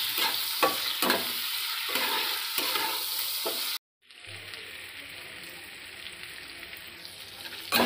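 Prawns and green chillies frying in hot oil in a kadai: a steady sizzle with a metal spatula scraping and stirring them. About four seconds in the sound cuts out briefly and comes back as a quieter, even sizzle without stirring.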